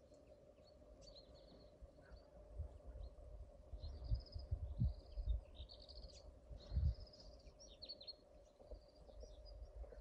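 Small songbirds chirping and twittering in short, high phrases, several overlapping. Low muffled thuds come in the middle few seconds, and a faint steady hum runs underneath.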